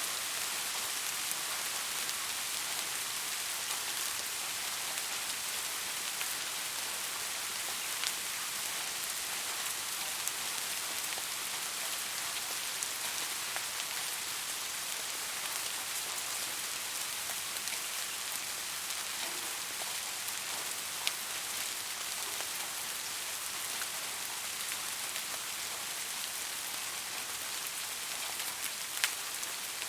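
Steady rain falling, a continuous high hiss with scattered individual drop ticks.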